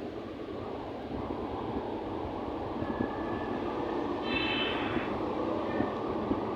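Train running with a steady rumble that grows slowly louder. Brief high squealing tones come in about three seconds in, and again between four and five seconds in.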